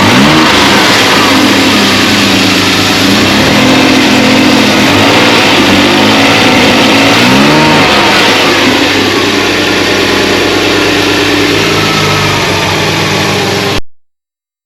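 BMW M50B20 2.0-litre inline-six running, warming up after a cold start following an intake overhaul. Its pitch rises and falls several times as it is blipped in the first several seconds, then it settles to a steadier idle. The sound cuts out briefly just before the end.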